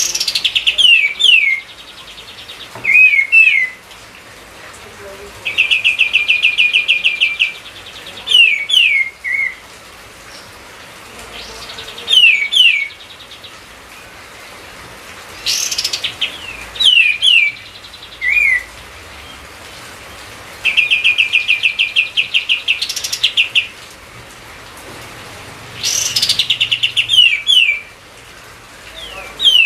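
Kapas tembak songbird singing vigorously (gacor): phrases of rapid, evenly spaced trilled notes and short downward-slurred whistles, repeated every few seconds.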